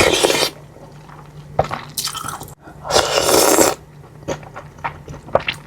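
Close-miked eating sounds of someone chewing bakso, Indonesian meatball soup: a few loud wet bursts, the longest just under a second, with quieter chewing clicks between them.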